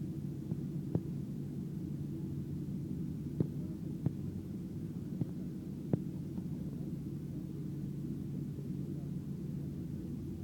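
Steady low rumble inside the cabin of a Boeing 737-700 airliner, with a few sharp knocks or rattles in the first six seconds or so.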